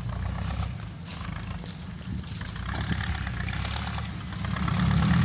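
Diesel dump truck engine running steadily, its pitch and level rising near the end as it pulls harder.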